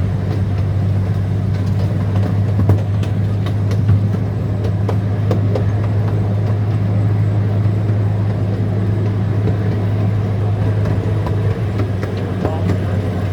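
Zoo train running steadily, heard from aboard: a constant low engine drone with a few short knocks from the moving cars.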